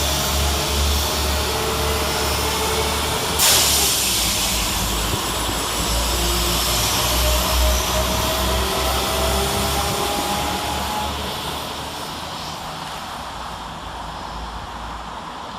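Two coupled Class 172 Turbostar diesel multiple units pulling away, their diesel engines working hard under power with a whine that rises in pitch as they gather speed. A single sharp bang comes about three and a half seconds in, and the sound fades over the last few seconds as the train draws away.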